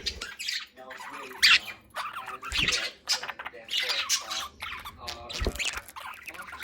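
Budgerigars chattering and squawking: a dense run of short, overlapping high chirps and warbles.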